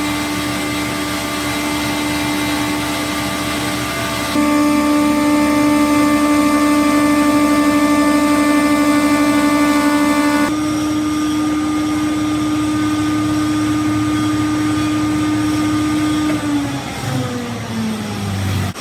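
Small stainless-steel rice flour grinding mill running at speed with a steady high whine from its motor and cutter. About two seconds before the end its pitch falls as the mill spins down after being switched off.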